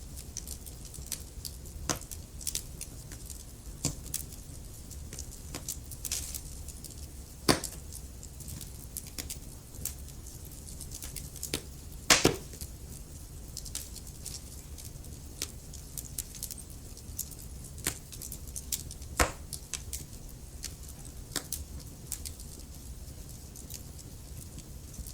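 Wood fire crackling: irregular sharp pops and snaps over a steady low rumble, with a few louder pops, the loudest about halfway through.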